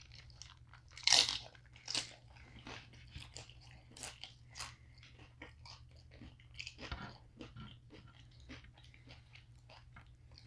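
Close-up crunching and chewing of crisp fried tortilla, with many sharp crackly bites, the loudest about a second in. A faint steady low hum sits underneath.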